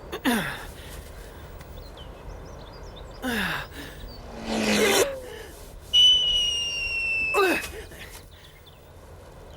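A person's breathy gasps and sighs, four of them, each falling in pitch. Between the last two there is a high whistling tone that slides slowly down for about a second and a half.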